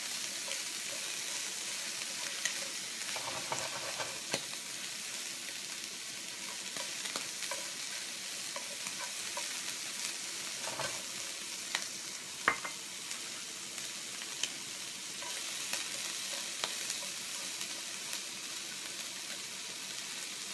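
Squid, shimeji mushrooms and water spinach stems sizzling steadily in a hot frying pan on high heat as they are stir-fried with long chopsticks. The chopsticks tap and scrape against the pan now and then, with one sharp click about twelve seconds in.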